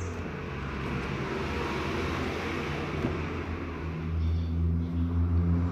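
Steady low mechanical hum with an even hiss over it, a little louder near the end.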